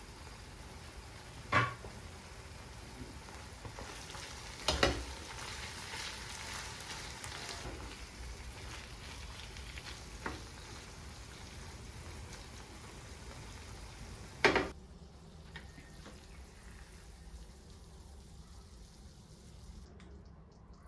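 Food sizzling in a frying pan, with a few sharp clinks and knocks against the pan. The sizzle falls away after the last and loudest knock, about fifteen seconds in.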